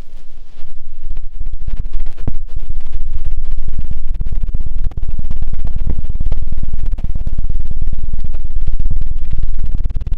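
ASMR 'helicopter' ear-cleaning sound on the microphone: a fast, loud flutter of low thumps like rotor blades. It builds up about a second in and dips briefly midway.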